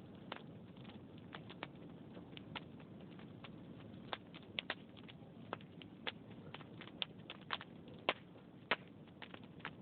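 Wood fire burning in a fireplace: a steady low rush of flame with irregular crackles and pops of the logs, the pops coming more often and louder in the second half.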